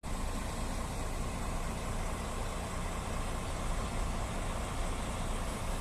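Grove GMK 4100 mobile crane's diesel engine running steadily.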